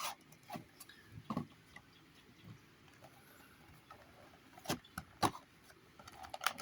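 A few scattered light taps and clicks of a cardboard model box and its packaging being handled.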